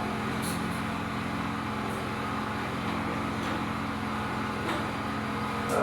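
A steady mechanical hum with a low tone and a background hiss, unchanging throughout.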